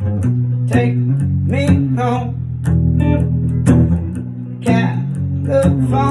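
Guitar strummed in chords, the instrumental part of a song between sung lines, with full low notes ringing under the strums.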